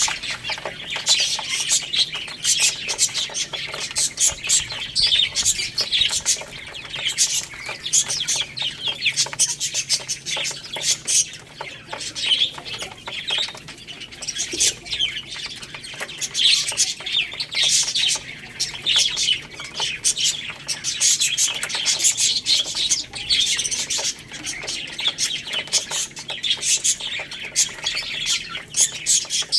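A flock of baby chicks chirping continuously, many short high peeps overlapping.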